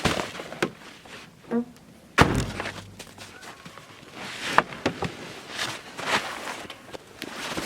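Footsteps in snow, an uneven series of steps, with one sharp thump about two seconds in.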